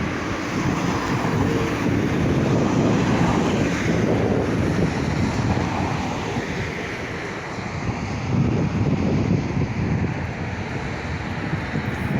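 Wind buffeting the microphone: a rumbling, gusting noise with no distinct events, swelling a little about two-thirds of the way through.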